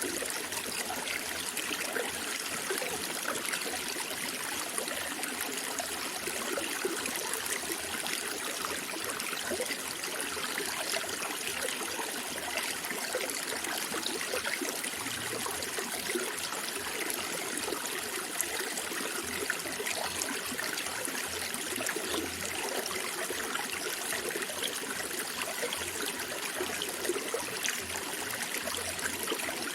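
Running water of a small stream or brook, a steady bubbling and trickling flow without pause.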